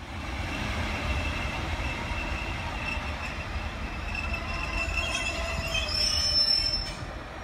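Class 142 Pacer diesel railbus running into the station over a steady low rumble, with a continuous high metallic squeal. A second, higher squeal joins about five and a half seconds in, and the sound is loudest about six seconds in.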